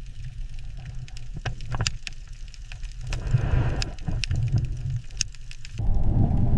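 Deep low rumble with scattered sharp clicks and crackles, and a hiss that swells briefly about halfway through.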